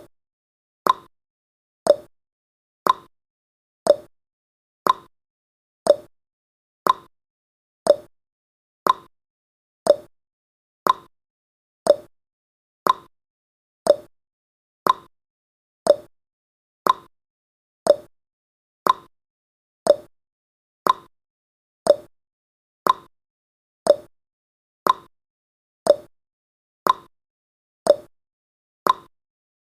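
A countdown timer's tick sound effect: one short, sharp click every second, each dying away quickly, with silence between.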